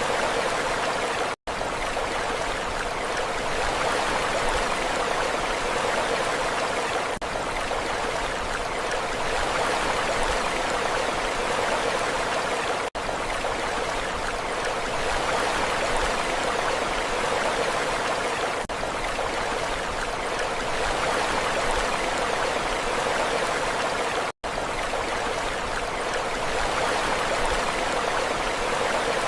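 Steady rushing water, an even hiss with no rise and fall, that cuts out for an instant about a second and a half in and again near the end.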